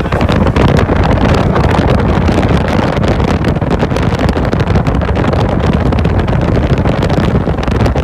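Loud wind buffeting the microphone in a moving car, a rushing roar with rapid flutter over the low road and engine noise; it cuts off abruptly near the end.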